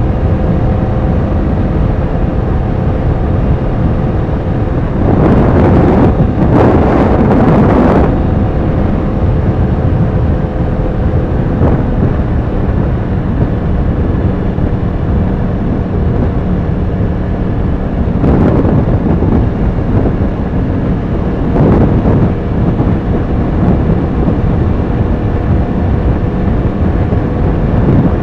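Yamaha R1's inline-four engine running steadily under way, with wind rushing over the microphone. The rushing swells louder for a few seconds about five seconds in, and briefly twice more later.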